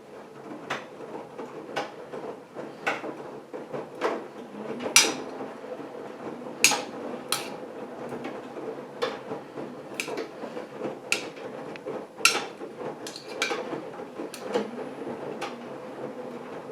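AEG Lavamat washing machine running a test wash: a steady motor hum with irregular knocks and clatters from the turning drum, roughly once a second.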